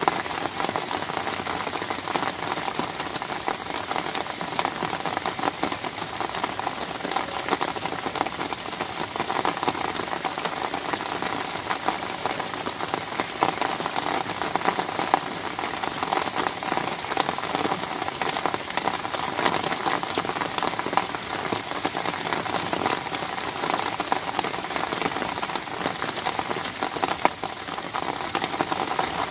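Rain falling steadily on an umbrella canopy, heard from underneath: a dense, even stream of small drop impacts with no letup.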